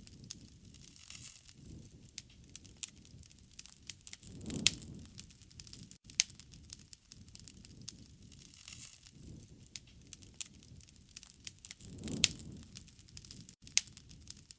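Wood fire crackling, with sharp irregular pops and two low rushing swells of flame, about four and a half and twelve seconds in.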